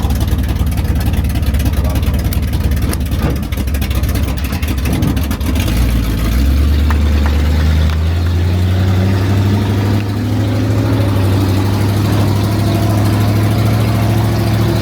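Monster truck's engine running. It is rough and uneven for about the first six seconds, then settles into a steady low drone that slowly rises in pitch.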